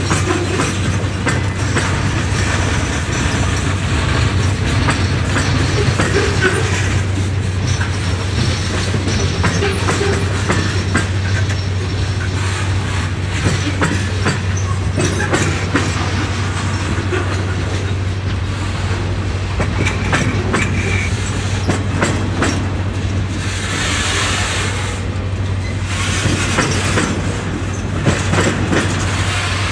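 Railcars rolling past close by: gondolas, then flatcars carrying track-maintenance machines. There is a steady rumble with wheels clicking over the rail joints, and two short, hissier surges of wheel noise near the end.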